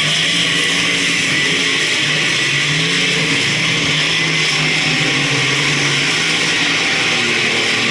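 Several speedway race car engines running hard around the track: a loud continuous din with engine notes slowly rising and falling.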